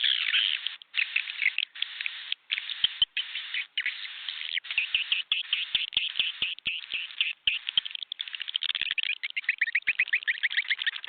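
Swiftlet calls played as a lure sound for a swiftlet house: a dense, continuous twittering of chirps with scattered faint clicks, breaking into a fast run of evenly repeated chirps near the end.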